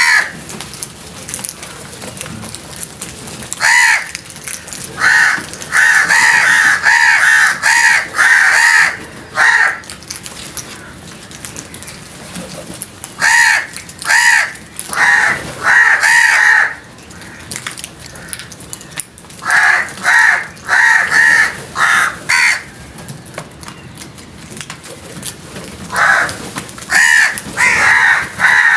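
Crows cawing loudly in four runs of rapid, harsh caws with short lulls between: the alarm calls of frightened crows.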